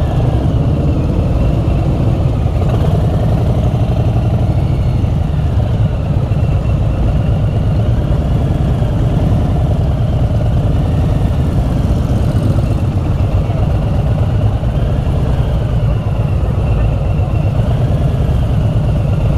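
Motorcycle engine running steadily at low riding speed, a loud, even low rumble with a fast pulse.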